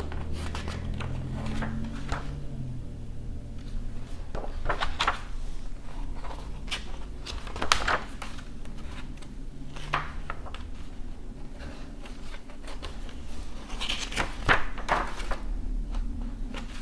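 Pages of an old paper book being turned and handled: dry paper rustling with short, irregular flicks and crinkles, a few of them sharper than the rest.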